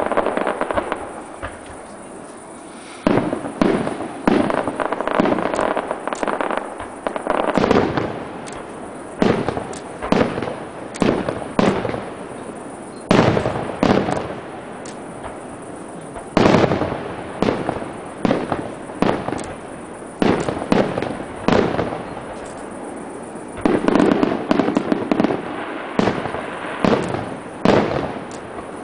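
Aerial firework shells bursting in quick, irregular succession, each sharp bang trailing off. There is a short lull about a second in, then the bangs come thick and fast, densest near the end.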